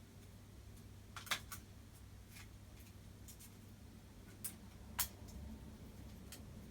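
Faint, scattered clicks and light scrapes of a hand tool against broken screen glass as cracked glass shards are lifted off an iPhone LCD. The two sharpest clicks come about a second in and about five seconds in, over a steady low hum.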